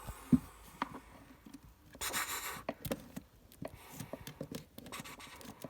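Handling noise from a phone being picked up and moved: a sharp thump about a third of a second in, a short rustle about two seconds in, and scattered light taps and scrapes.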